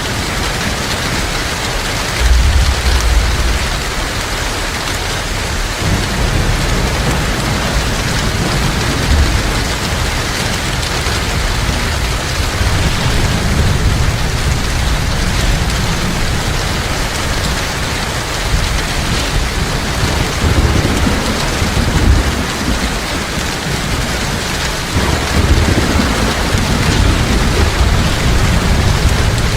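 Heavy rain falling steadily, with low thunder rumbling in several rolls, the first about two seconds in.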